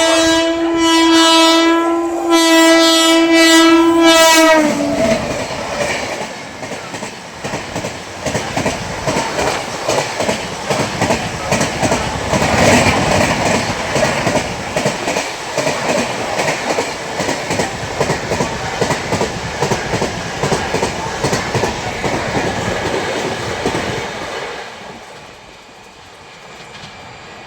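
Train horn blowing two long blasts, then the train running past, its wheels clattering rhythmically over the rail joints, loudest midway and fading away near the end.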